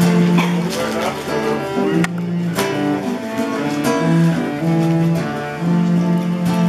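Instrumental music: plucked and strummed acoustic guitar under a held, melodic bowed string line that moves from note to note.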